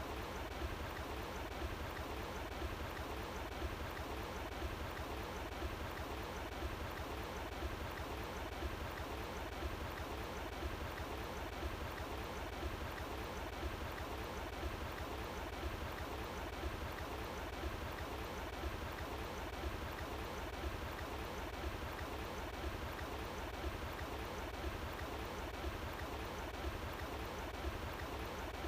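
Running water flowing steadily, an even, unchanging rush with no breaks.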